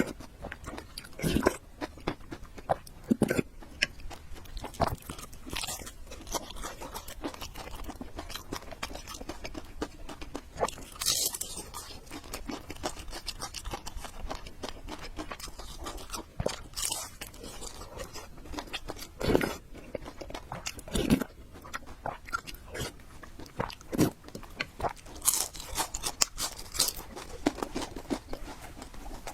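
Close-miked eating: irregular chewing, slurping and lip-smacking with crunchy bites, made by a person eating noodles and fried eggs.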